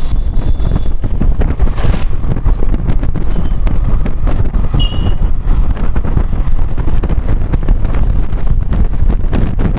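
Heavy wind buffeting on the microphone of a moving motorcycle, with road and engine rumble underneath.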